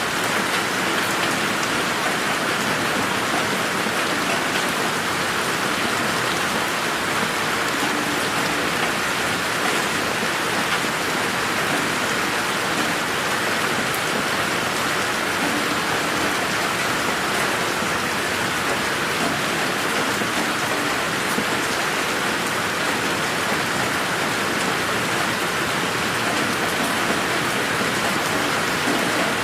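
Steady rain falling in a garden, an even, unbroken hiss of drops. It is processed in 8D so that it pans around the listener's head.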